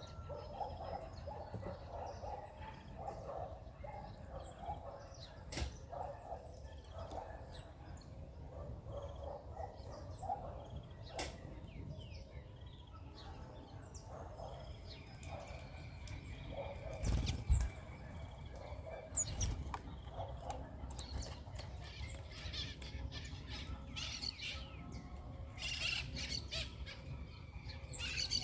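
Several birds feeding together: a steady run of lower calls underneath scattered short, high chirps, with sharp knocks now and then and a louder low thump about 17 seconds in.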